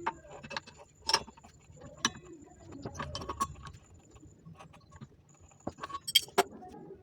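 Small metal parts clinking and tapping: a string of irregular sharp clicks, some with a brief metallic ring, as the saw blade and its reducing ring are handled.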